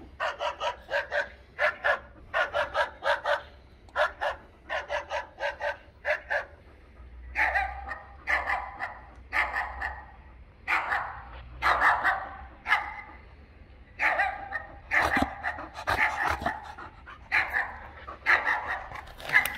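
Dog barking: quick runs of short, sharp barks in the first six seconds, then longer, fuller barks about once a second.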